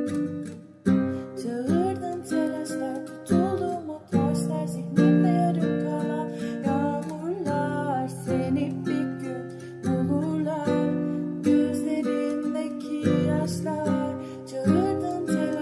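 Song with a strummed acoustic guitar, chords struck afresh about every second, under a melody line that bends and slides in pitch.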